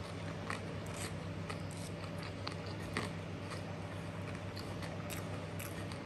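Close-up mouth sounds of chewing a mouthful of chicken satay and rice, with scattered sharp wet clicks and small crunches. A steady low hum runs underneath.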